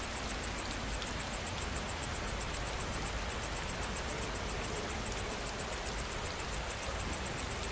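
Steady rain falling, an even hiss, with an insect chirping in a fast, high, even pulse of about six chirps a second.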